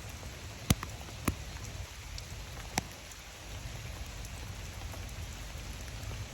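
Steady rain falling, with three sharp taps of drops landing on a nearby surface in the first three seconds.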